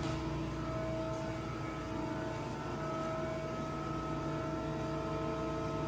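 Mori Seiki NH4000DCG horizontal machining center running with a steady hum and several steady whining tones.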